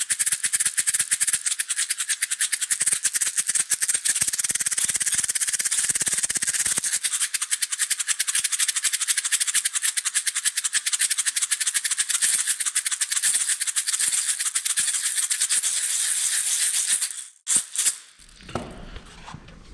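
Maracas shaken in a fast, steady, continuous rattle. They stop near the end with a couple of last shakes.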